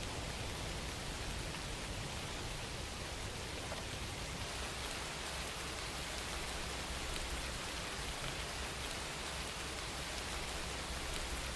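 Steady rain falling, with fine pattering drops over a low rumble.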